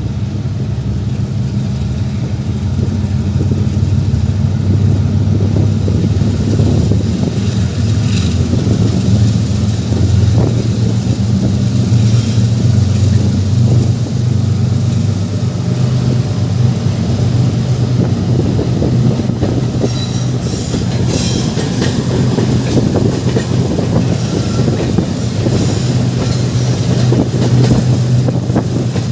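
Passenger train in motion, heard from on board: a steady low rumble with the wheels clattering over the track, and a few short high squeals.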